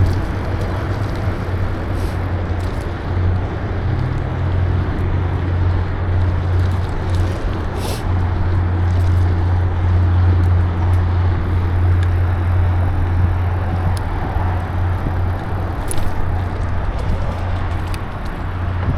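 Steady rumble of a bicycle ride: wind on the microphone and tyre noise, with a few brief sharp clicks from the bike.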